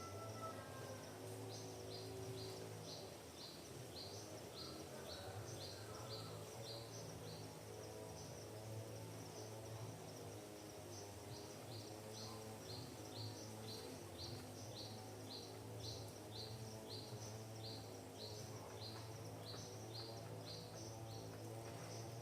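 A bird calling in a run of short, high, falling chirps, two to three a second, which breaks off about 4 s in and resumes partway through. A steady low hum runs underneath.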